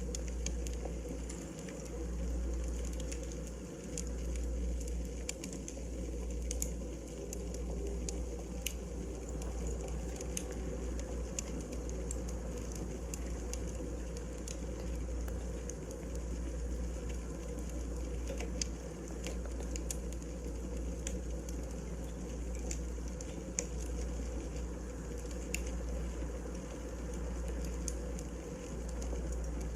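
Wood fire burning in a fireplace: irregular sharp crackles and pops over a steady low rumble and soft hiss.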